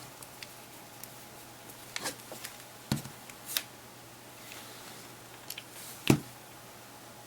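Scattered small clicks and taps of a precision screwdriver and tiny screws on the plastic housing of a handheld media player while its rear-housing screws are put back in, the sharpest tap about six seconds in.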